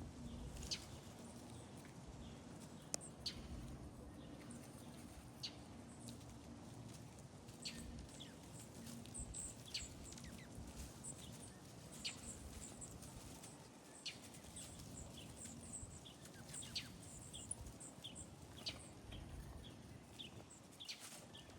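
Birds chirping: many short, high-pitched calls scattered irregularly throughout, over a faint low hum.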